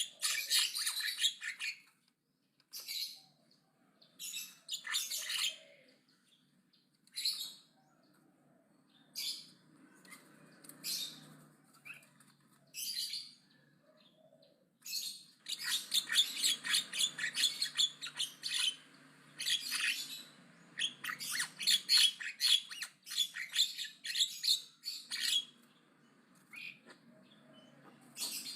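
Javan myna chattering loudly in harsh, scratchy bursts. Short separate calls come a second or two apart, then about halfway through it breaks into a long run of rapid chattering lasting several seconds.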